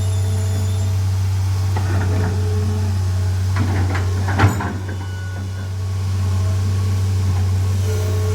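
Excavator's diesel engine running steadily at idle, with a short rattle of metal and one sharp knock about four and a half seconds in.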